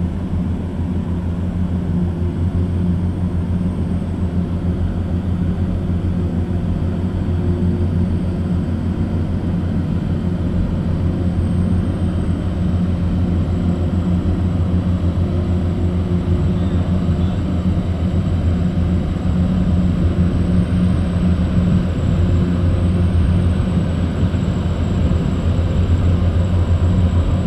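Towboat's big diesel engines droning steadily while pushing barges, the low throb growing slightly louder as it goes on.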